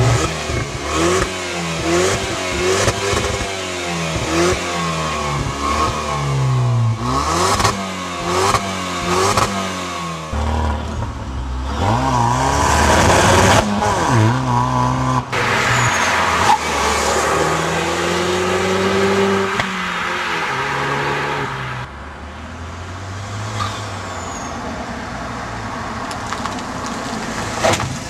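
Opel GT's 2.0-litre turbocharged engine and exhaust revving in a run of quick blips, about one a second, then in several longer climbs in revs that fall away again.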